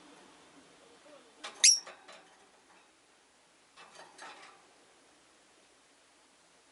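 A rosy-faced lovebird gives one sharp, high chirp about a second and a half in, sliding down in pitch, with a few soft clicks around it and again near the middle.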